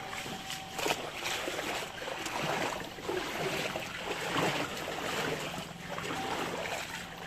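Floodwater sloshing and splashing in uneven surges.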